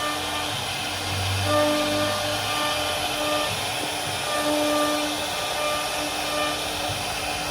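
CNC router spindle cutting wood: a continuous hiss of cutting noise under a steady whine that fades in and out every second or so as the bit works.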